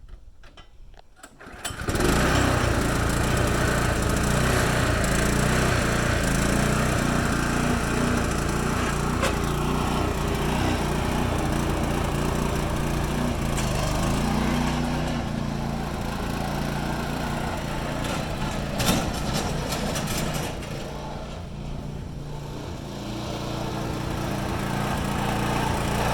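Predator 212 single-cylinder four-stroke engine on a Sears Suburban garden tractor running steadily as the tractor is driven; the engine sound comes in abruptly about two seconds in, eases off a little around twenty seconds in, then builds again near the end.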